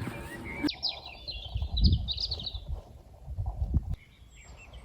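A songbird singing a rapid run of short chirps and warbles, which pauses for about a second before starting again near the end. Low rumbling thumps sound underneath.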